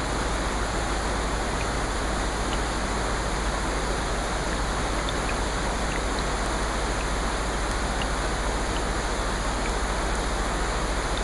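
Steady rain hiss with faint scattered drop ticks, even throughout.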